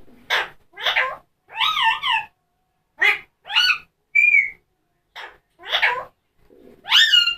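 Pet parrot giving a string of about nine short, high calls, each a quick rising-and-falling tone, with one longer wavering call about two seconds in and a clear whistled note after about four seconds.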